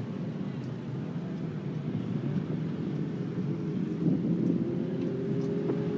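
Steady drone of motors running, with a faint held tone that shifts slightly in pitch in the second half and a gradual rise in level.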